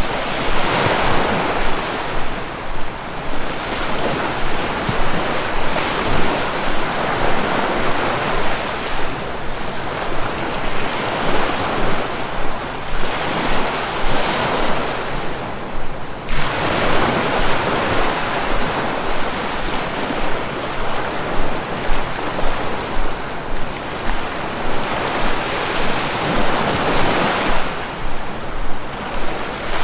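Sea waves rushing in, a continuous noise that swells and ebbs every few seconds, with one sudden dip about halfway through.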